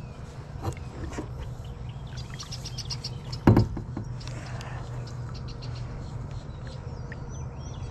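Small bird chirps, with a quick run of them about two and a half seconds in. A single loud knock comes a little later, about three and a half seconds in, over a low steady hum.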